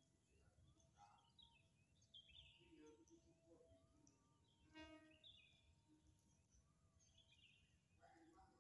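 Faint outdoor ambience with scattered short bird chirps. A brief buzzy call about five seconds in is the loudest moment.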